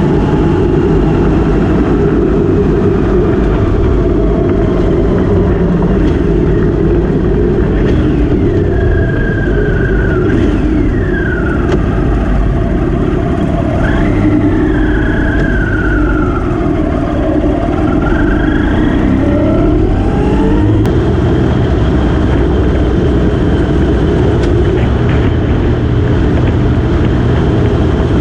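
Motorcycle riding at speed: a dense, steady rush of wind and engine noise, with engine pitch rising and falling several times through the middle.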